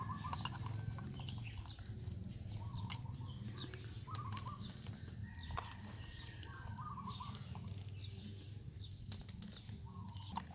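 Short bird calls repeating every couple of seconds over a low steady hum, with scattered light clicks.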